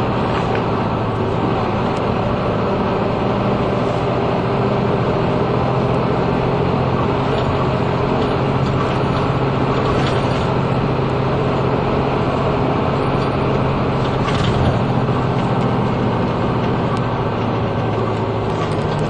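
Inside a route bus on the move: its diesel engine hums steadily under continuous tyre and road noise, with a few faint knocks from the cabin.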